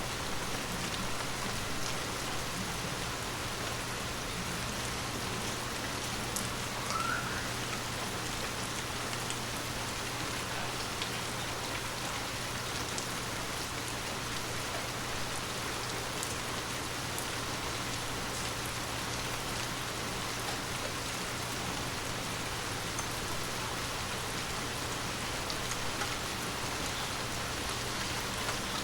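Heavy rain falling steadily onto pavement, a continuous even hiss with scattered individual drop ticks.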